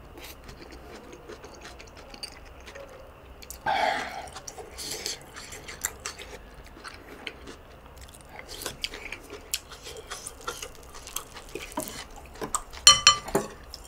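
Close-miked wet chewing and mouth sounds of someone eating rice and kimchi stew, with a brief louder mouth noise about four seconds in. Near the end, a few sharp clinks of chopsticks against a dish.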